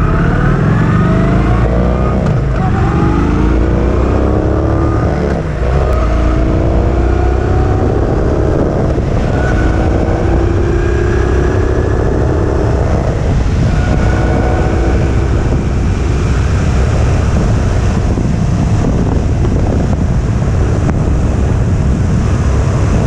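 Kawasaki Vulcan 900's V-twin engine under acceleration. Its note climbs through each gear and drops back at each upshift, made at about 3700 RPM, about four times. After that it runs more steadily at speed.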